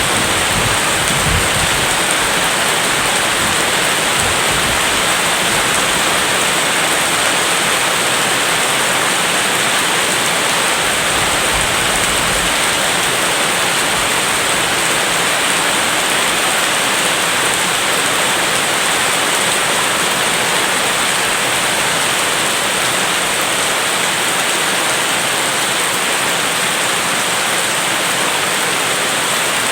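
Steady heavy rain, an even hiss without a break, with a faint low rumble in the first couple of seconds and again about twelve seconds in.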